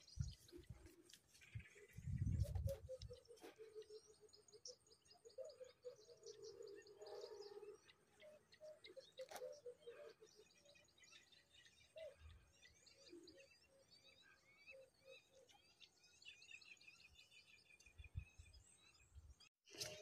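Faint birdsong: small birds chirping and trilling over the open ground, with a few low rumbles.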